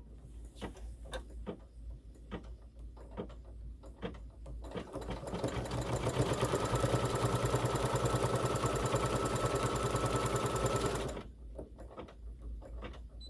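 Embroidery machine stitching a border trim down, a fast even run of stitches that starts about five seconds in and stops shortly before the end. Scattered light clicks come before and after the run.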